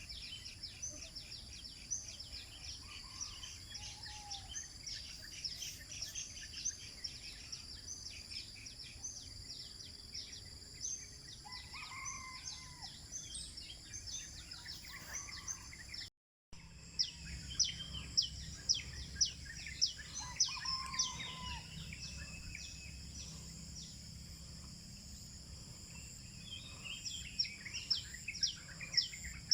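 Several birds singing in a dawn chorus: rapid runs of short, repeated chirps over a few lower calls, against a steady high-pitched hum. The sound drops out briefly about halfway through.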